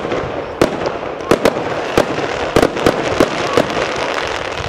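Fireworks display: about a dozen sharp bangs from fireworks bursting at uneven intervals, over a continuous crackling hiss.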